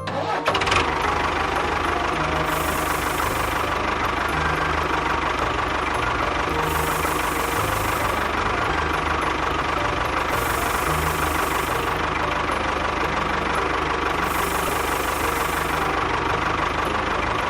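An engine running steadily with a knocking idle, with a high hiss that comes and goes about every four seconds.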